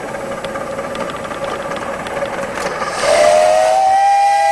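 A steady hiss, then about three seconds in a steam whistle blows one long, loud note that rises slightly in pitch.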